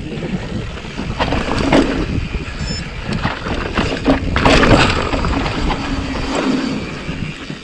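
Mountain bike rolling fast down a rocky dirt trail: wind buffeting the helmet or chest camera's microphone over the tyres crunching on loose rock, with the bike clattering over bumps, loudest about two and four and a half seconds in.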